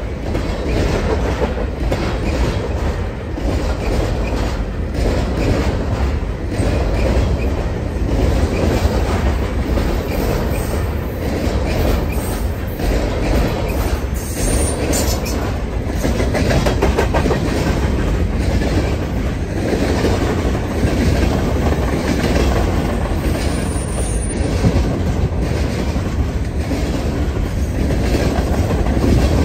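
A train's cars rolling steadily past, with a deep rumble and a constant clickety-clack of wheels over rail joints.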